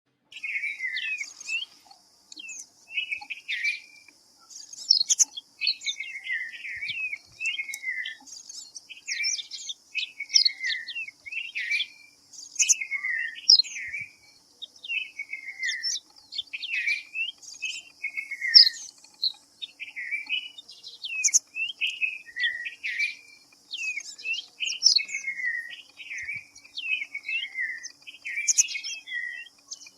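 Red-vented bulbuls calling, with short bubbly chirping phrases repeated about once or twice a second and no let-up, over a steady high-pitched hiss.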